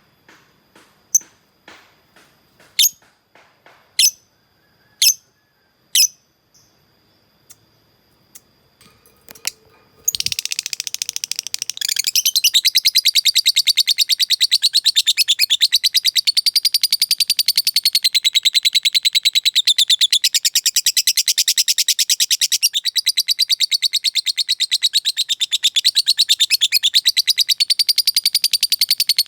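Lovebird calling: separate sharp, high chirps about once a second, then from about ten seconds in a long, unbroken, very rapid chattering trill. This is the sustained 'ngekek' call that lovebird keepers prize for its length.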